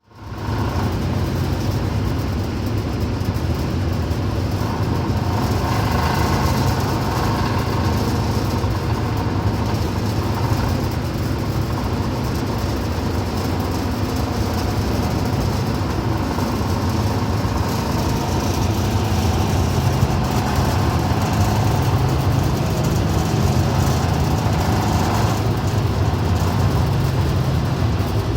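Rooftop exhaust fan running with a steady low drone and a hiss of moving air, unchanging throughout.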